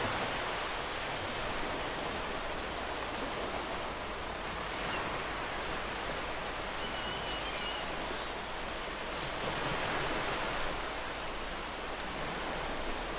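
Ocean surf: waves breaking and washing on the shore as a steady hiss that swells gently, rising a little about ten seconds in.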